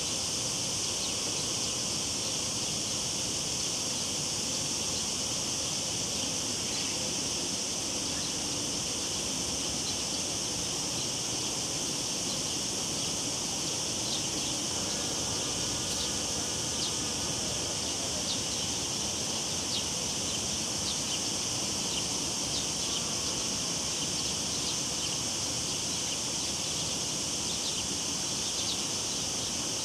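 A chorus of cicadas buzzing steadily and high, over a low, even rush of river water. Short faint high ticks come and go through the second half.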